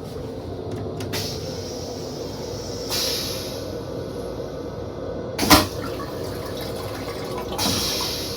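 Toilet in a Metro-North M7 railcar restroom going through its flush cycle over the car's steady running rumble: two short hissing bursts about three and seven and a half seconds in, with a sharp, loud clack between them.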